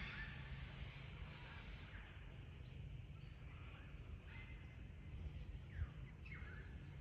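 Faint outdoor ambience: scattered bird calls, a few short chirps and falling whistles, over a low steady rumble.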